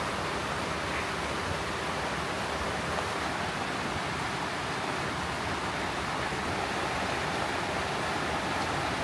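Steady heavy rain falling, an even rushing hiss with no breaks.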